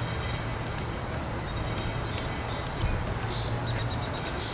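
A songbird calling: a few high chirps from about halfway through, then a fast trill of rapid repeated notes near the end, over a steady low rumble.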